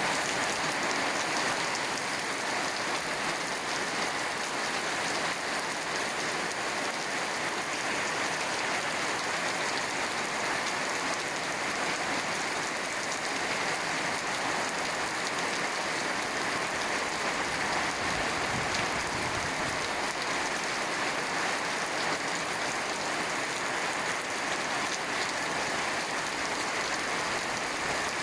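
Steady rain falling, an even hiss of drops on surfaces that keeps up without a break.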